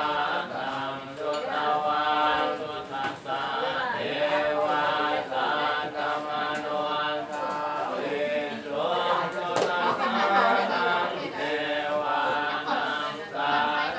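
A group of voices chanting Buddhist verses in unison in a steady recitation tone, with short pauses for breath between phrases.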